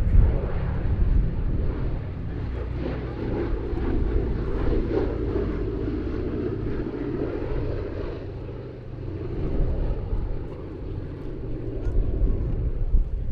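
Boeing B-17G Flying Fortress's four Wright Cyclone radial engines droning as it flies past, growing louder for several seconds and easing off about two-thirds of the way through.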